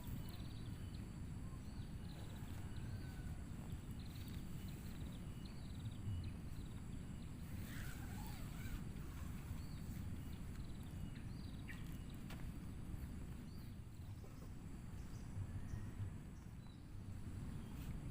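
Outdoor ambience: a steady low rumble with short, faint high chirps scattered through it.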